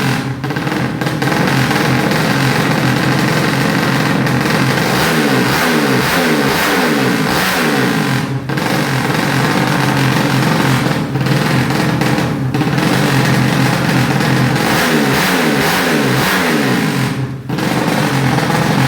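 Motorcycle engine revved again and again, its pitch dropping after each blip, with a few short breaks in the sound.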